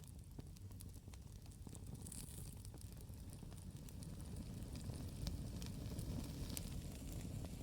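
Campfire burning, with scattered sharp crackles and pops over a steady low rumble of the flames.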